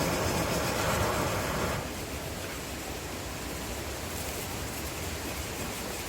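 Fire burning inside a Swedish torch log: a steady rushing noise, louder for about the first two seconds, then settling.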